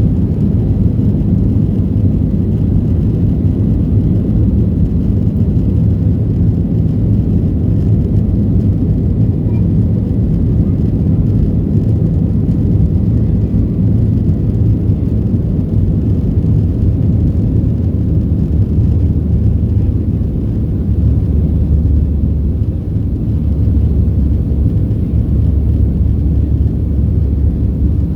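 Cabin noise inside a Boeing 737-700: a steady, loud low rumble from its CFM56 jet engines and airflow, with no rise or fall.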